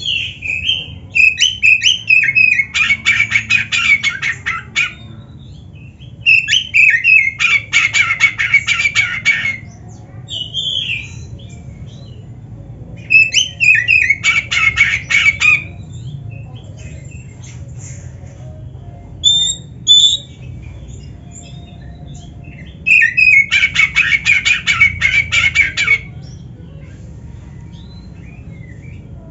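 Oriental magpie-robin singing in full voice, with canary-style phrases worked into its song: four loud bouts, each a run of warbled whistled notes that breaks into a fast rattling trill. Between the bouts come a few short high notes over a faint low hum.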